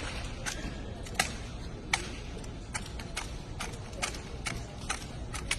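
Sharp clacks and slaps of a drill rifle being spun, caught and struck by hand in an armed exhibition drill routine, about a dozen in an uneven rhythm, the loudest a little over a second in and at about two seconds.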